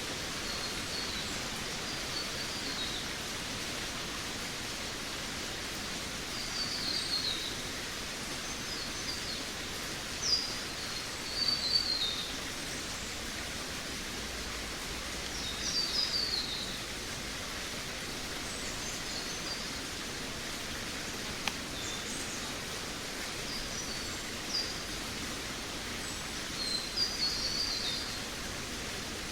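Forest birds singing: short, quick chirping phrases that fall in pitch, coming every few seconds over a steady background hiss, with the busiest spell about ten to twelve seconds in.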